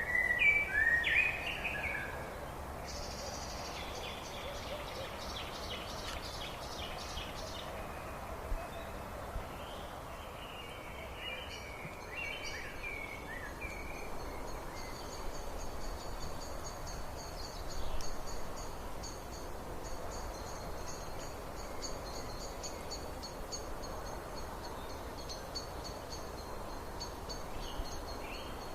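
Several wild birds singing and calling over a steady background hiss: loud chirps at the start, a rapid high trill a few seconds in, more chirps around the middle, and from about halfway a long thin high-pitched pulsing song.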